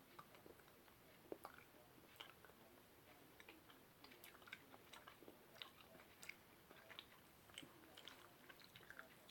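Faint chewing and small mouth clicks from people eating chocolate, scattered irregularly over a near-silent room.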